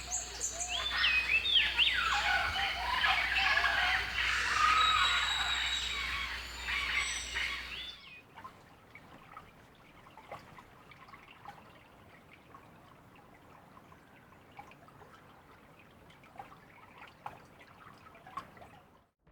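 Many birds calling at once, a dense chorus of short rising and falling whistles and chirps. About eight seconds in it cuts off abruptly to a much fainter background with only a few scattered calls and clicks.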